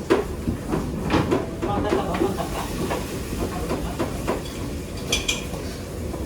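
Commercial kitchen ambience: a steady rumble and hiss, typical of an extractor hood, with scattered clicks and knocks of utensils and pans. A short, high metallic ring comes about five seconds in.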